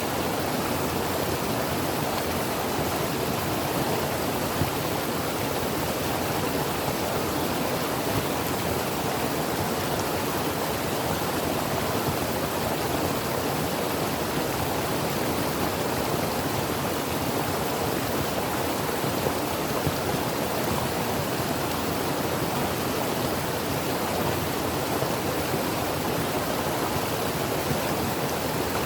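Creek water flowing and burbling steadily over rocks, a constant rushing noise.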